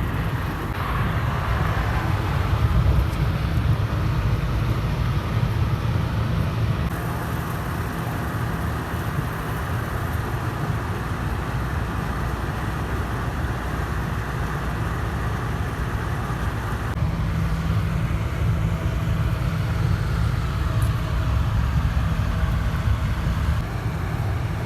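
Steady engine and road noise of a car being driven.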